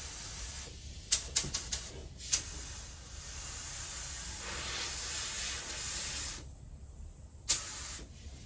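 Compressed-air paint spray gun hissing as it sprays candy paint with flake. The hiss stops about six and a half seconds in, and a few sharp clicks fall early on and near the end.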